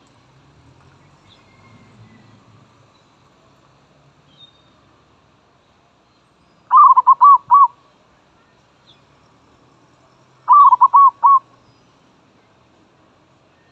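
Zebra dove (merbok) cooing: two loud bouts of four or five quick, rolling coo notes, the first about halfway through and the second a few seconds later.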